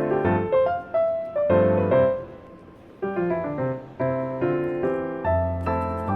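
Background music: a solo piano playing a light melody of struck notes, with a brief lull about halfway through.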